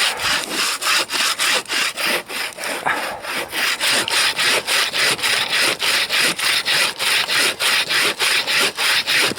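Bow saw cutting through frozen wood in steady back-and-forth strokes, about three a second, each a dry rasp.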